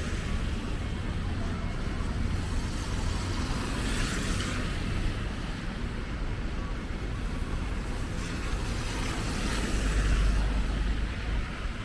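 Road traffic: cars passing, with a low rumble and a hiss that swell as vehicles go by, about four seconds in and again near the end.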